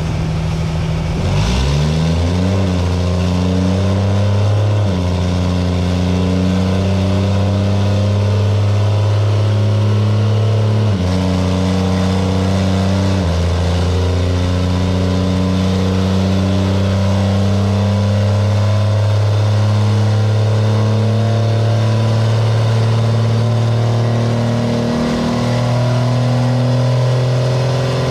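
Cummins diesel drag truck engine running on the dyno. It revs up quickly about two seconds in, then holds steady rpm for long stretches, with sudden steps in pitch several times.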